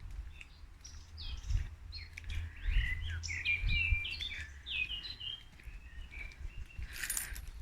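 Woodland birdsong: a busy phrase of quick, varied chirps and trills in the middle, with fainter calls around it. Low wind rumble on the microphone underneath, and a brief rustle near the end.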